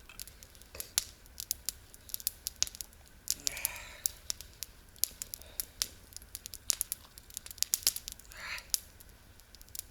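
Wood campfire crackling, with many sharp, irregular pops and snaps, and a softer rustle about a third of the way in and again near the end.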